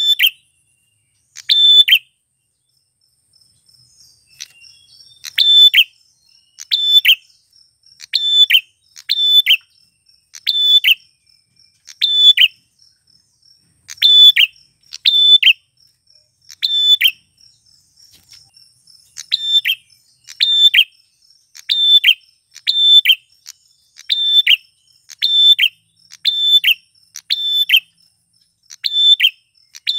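Male prenjak klawu calling over and over, sharp high calls about one a second, some in quick pairs, with a short pause a few seconds in. A faint steady high tone runs behind the calls.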